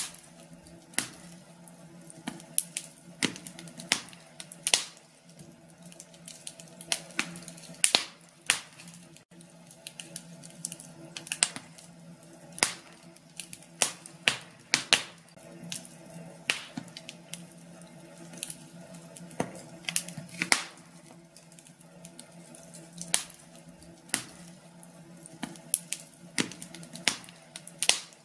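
Wood fire crackling in a fireplace: irregular sharp snaps and pops, sometimes a few in quick succession, over a faint steady low hum.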